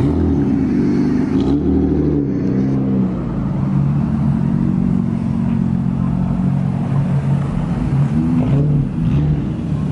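Car engine running, its pitch rising and falling a few times as the revs change.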